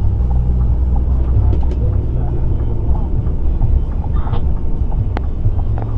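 Scania P360 truck's diesel engine running with a steady low rumble, a few light clicks over it.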